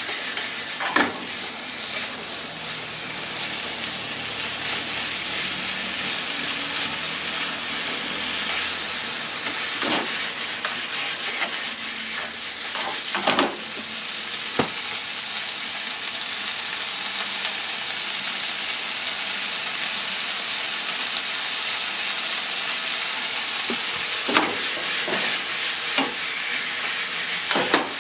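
Sliced potatoes, onion and ham sizzling steadily in a frying pan, stirred with a wooden spatula that knocks and scrapes against the pan a few times.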